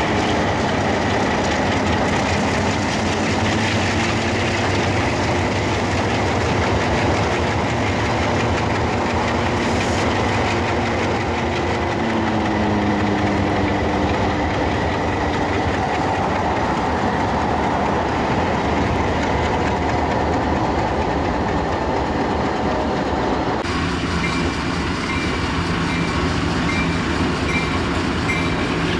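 Train rolling along the tracks: a steady rumble of railroad cars and wheels, with clacking over the rail joints. The sound changes abruptly about 24 seconds in.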